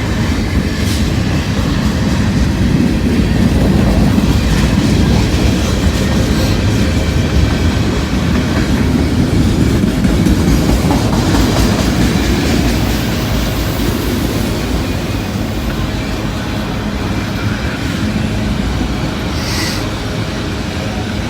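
Long freight train rolling past: a steady rumble of steel wheels on rail with a clickety-clack over the rail joints.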